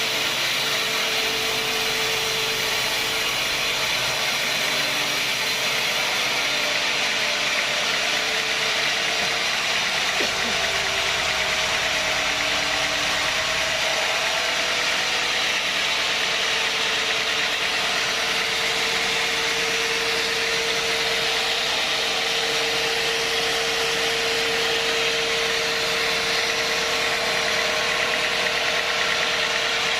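Sawmill machinery running steadily: a constant mechanical hum with a held tone and no breaks.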